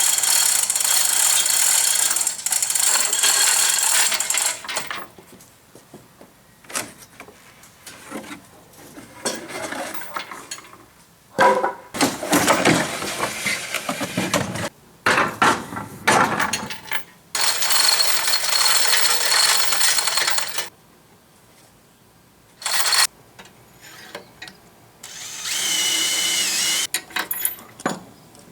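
A handheld power tool, of the drill or driver kind, running in several bursts of a few seconds each, with short knocks and clanks of metal between them.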